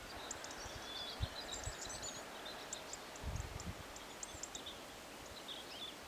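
Small birds chirping in short high calls scattered throughout, over a faint steady outdoor hiss, with a few low thumps about a second in and again near the middle.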